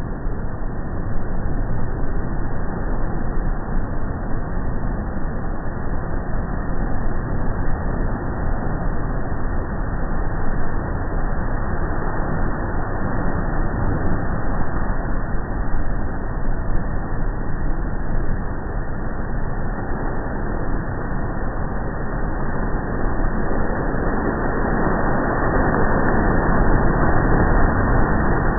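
Deep, steady rushing of ocean surf and wind, muffled and low, swelling louder near the end as the wave comes in.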